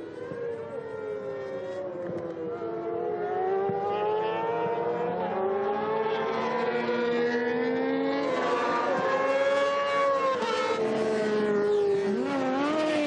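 Several superbike racing motorcycle engines at full throttle, their pitches climbing and dropping sharply at gear changes as a group of bikes passes. The sound grows louder about four seconds in.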